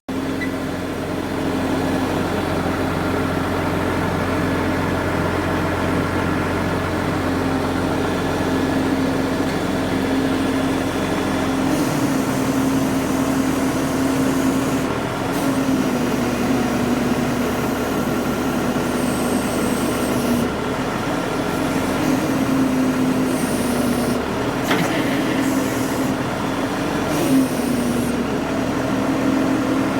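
Engine of a truck-mounted crane running steadily, its pitch shifting slightly up and down, with a few brief hisses in the second half.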